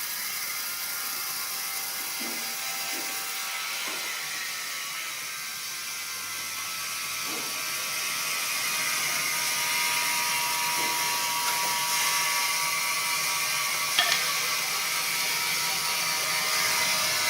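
Sawmill machinery running with a steady high hiss and whir, growing louder about halfway through, with a single sharp knock late on.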